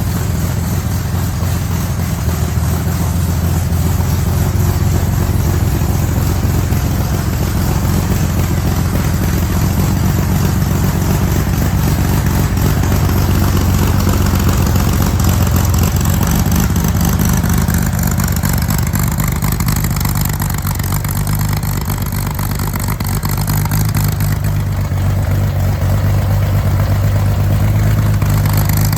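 1963 Chevrolet Corvair Rampside's rear-mounted, air-cooled 145 flat-six running steadily, its pitch shifting a little in the second half.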